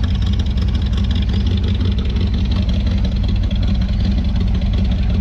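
A car engine idling loudly close by, with a steady, rapid pulsing exhaust note.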